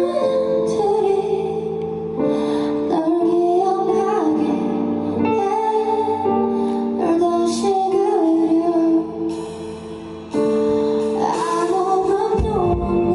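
A woman singing a melodic song live with instrumental accompaniment; the level dips briefly about nine seconds in and comes back up a second later.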